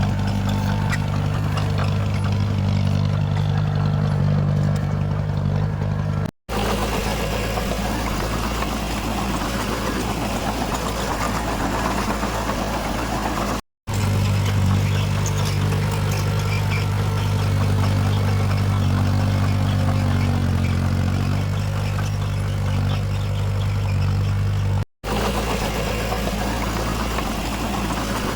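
Diesel engines of heavy earthmoving machines running, heard as several clips joined by abrupt cuts. Some stretches are dominated by a steady low engine hum, others by a noisier mechanical clatter.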